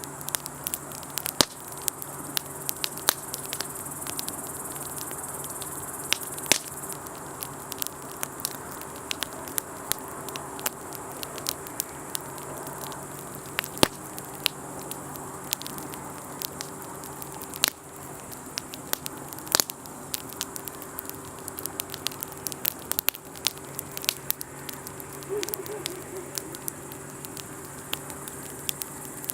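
Wood campfire crackling, with many irregular sharp pops and snaps from the burning wood.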